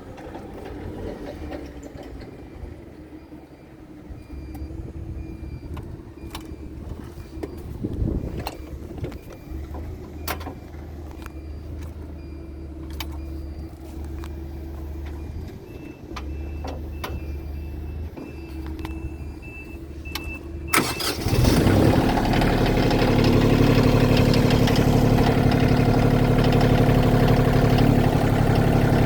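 Bobcat CT2025 compact tractor's diesel engine, quiet at first with scattered clicks and faint intermittent electronic beeping, then cranked and started about 21 seconds in. It settles into a steady, louder idle.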